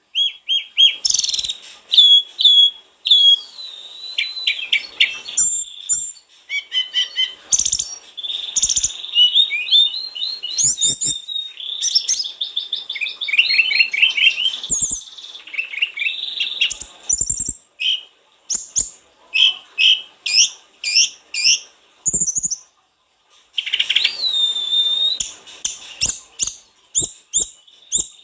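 A sulingan gunung (tledekan gunung) songbird singing in full, rapid, varied phrases of high whistles, chirps and fast trills, with only brief pauses and a few faint clicks. This is the 'gacor' full song used as a lure to draw out other birds of the kind.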